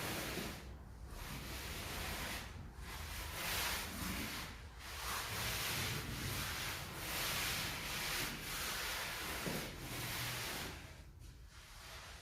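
Trowel scraping across a bed of sand-cement mortar in a run of long, rhythmic strokes, smoothing and levelling the sub-base for floor tile. The strokes die away near the end.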